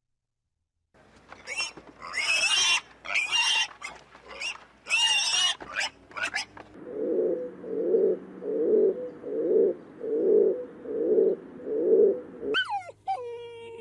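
Animal calls: several seconds of harsh, shrill cries, then a regular series of about eight low grunts, a little over one a second. Near the end it cuts to a high, falling whine.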